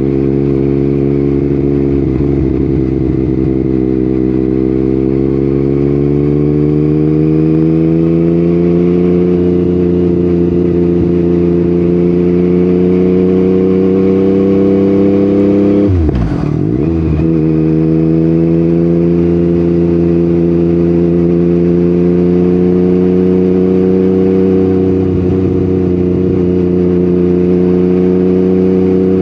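Yamaha MT-09 three-cylinder engine through an Akrapovic exhaust, pulling steadily with the note climbing slowly, then cruising at an even pitch. About halfway through the note drops sharply for a moment and comes back slightly lower, at a gear change.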